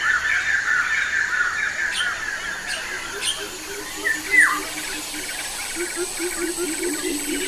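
Birds calling: a loud call that sweeps down sharply in pitch, about halfway through, over fast chattering at the start. A low, pulsing run of notes comes in near the end.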